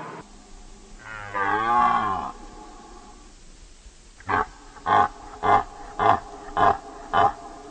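A large animal calling: one long bellowing call that bends in pitch, then a run of six short rhythmic grunts about 0.6 s apart.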